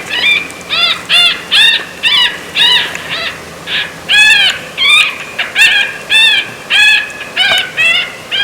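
Electronic predator call playing an animal distress sound: loud, high-pitched short cries repeated about two to three times a second, each rising and falling in pitch.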